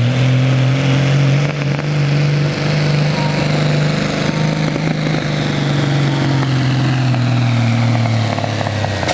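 Two-wheel-drive dually diesel pickup's engine at full throttle, pulling a weight sled. The engine note is steady at first, then sags slowly over the last few seconds as the sled's load builds.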